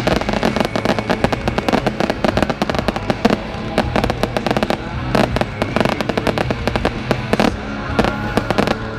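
Fireworks going off in a rapid, irregular string of bangs and crackles, several a second, with music playing along.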